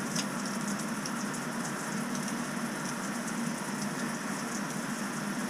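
Outdoor shower running, water spraying from the head in a steady hiss, as the newly installed Moen Posi-Temp valve is tested for hot on the left.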